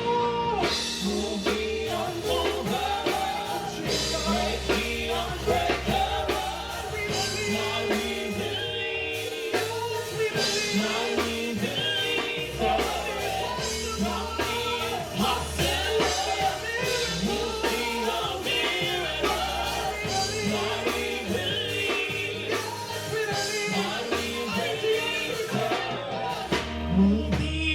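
Live gospel praise-and-worship music: singers leading a song over a full band with bass and drum kit.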